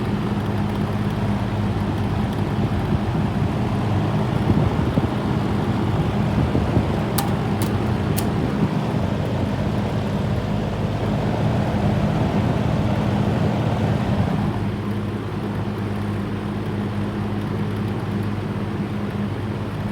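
Old Kmart box fan with metal blades running on high: a steady electric motor hum under the rush of air, its motor bearings freshly oiled. Three sharp clicks come about seven to eight seconds in.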